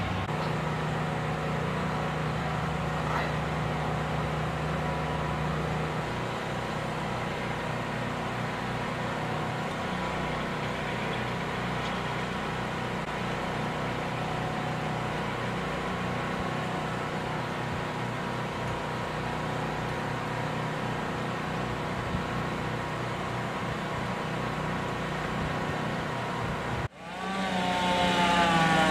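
Machinery engine running steadily under load, with small shifts in its note. About 27 s in there is an abrupt break to a louder engine whose pitch wavers up and down.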